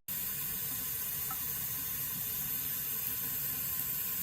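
Water running steadily from a waterfall-spout bathroom faucet into the sink basin, an even splashing rush.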